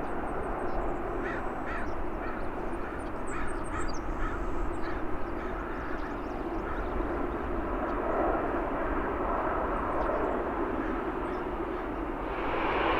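Crows cawing in a quick series of short calls over a steady outdoor airport rumble. Near the end a louder hiss comes up, as of an approaching jet.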